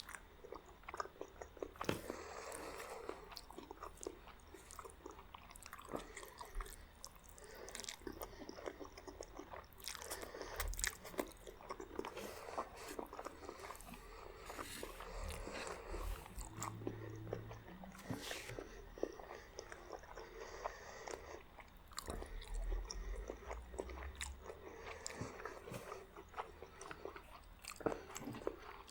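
Close-miked eating sounds: biting and chewing with irregular crunches and wet mouth clicks, typical of eating spaghetti and crunchy garlic bread.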